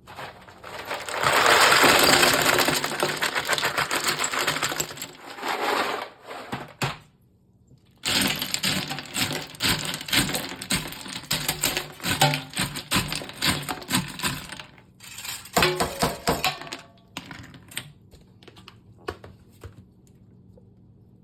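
Garbage disposal grinding something hard, a rattling clatter of many sharp clicks. It stops about six seconds in, then comes back in irregular rattling bursts that die away near the end.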